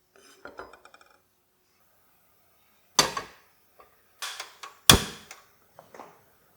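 A few light clinks with a brief ringing, then a string of sharp knocks of hard objects, the two loudest about two seconds apart.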